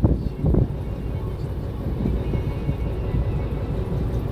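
Steady low rumble of a fishing boat's engine with faint background music, and two short thumps in the first second.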